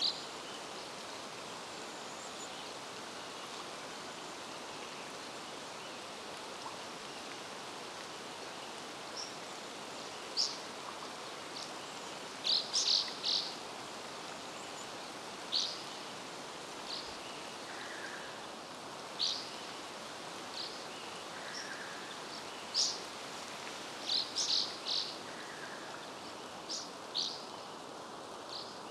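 Small birds calling in short, high chirps, singly and in quick runs of three or four, over a steady outdoor hiss.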